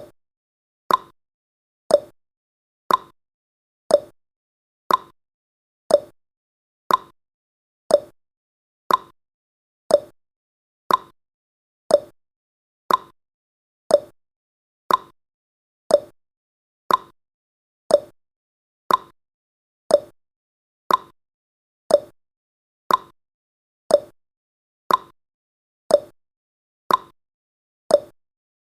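Clock-tick sound effect of a countdown timer: a short tick once a second, alternating between a higher and a lower pitch like a tick-tock.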